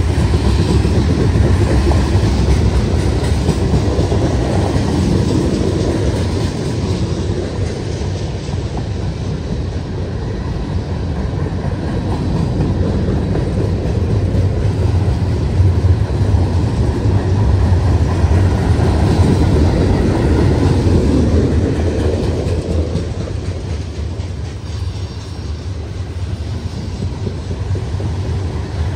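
Norfolk Southern freight train cars rolling past close by: a steady, loud rumble of steel wheels on the rails.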